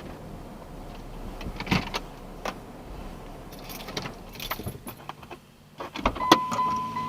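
Keys jangling and scattered clicks and knocks as things are handled in a car, with a thump near the end. Steady tones then start, the beginning of music from the car's sound system.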